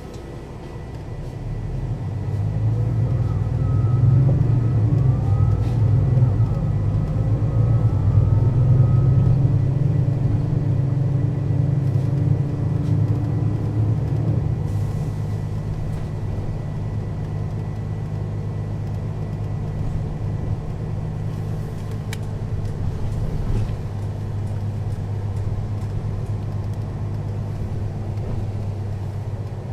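Mercedes-Benz O 530 Citaro city bus pulling away and accelerating. The engine builds up over the first few seconds, with a whine rising in pitch as the ZF automatic gearbox works through the gears, then eases to a steady cruise.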